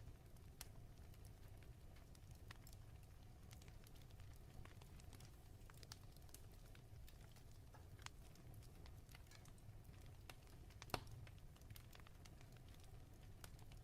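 Faint fireplace crackling: scattered small snaps and clicks over a low steady rumble, with one sharper pop about eleven seconds in.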